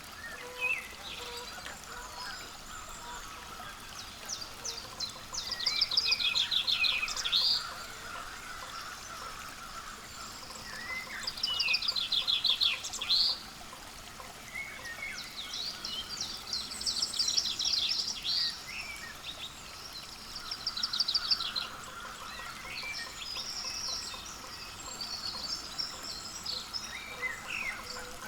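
Small songbirds calling, with several bursts of quick, rapidly repeated high notes over a steady outdoor background.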